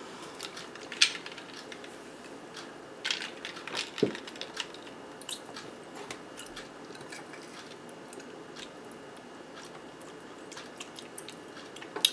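Close-miked eating: bites and chewing of soft zucchini boats with ground turkey and melted cheese, with scattered sharp wet clicks, the sharpest about a second in and around three and four seconds in.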